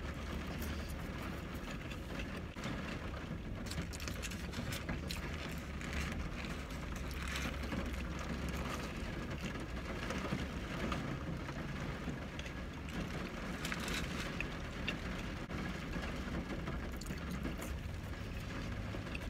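Mouth sounds of a person chewing and eating a Burger King Whopper and fries, with scattered soft clicks and paper wrapper rustling, over a steady low hum inside a car.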